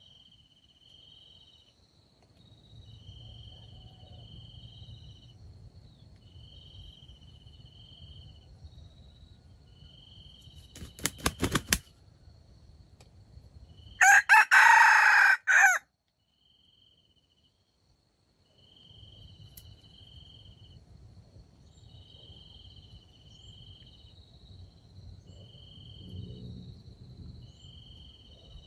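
A rooster crows once, loudly, for about two seconds midway, a second or two after a few sharp clatters. Insects chirp faintly in a regular pulse throughout.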